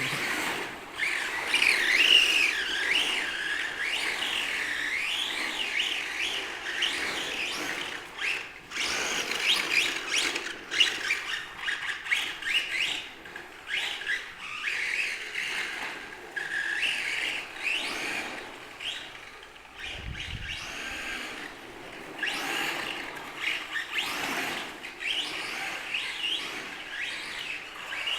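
Radio-controlled trucks driving and drifting on a concrete floor. Their motors whine high, the pitch rising and falling over and over with the throttle, mixed with tyres scrubbing and skidding.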